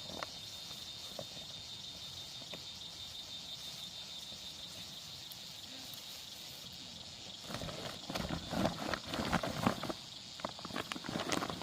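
A steady high chirring of insects in the background. About two-thirds of the way through, irregular rustling and knocking sounds, like footsteps or things being handled close by, join in for a few seconds.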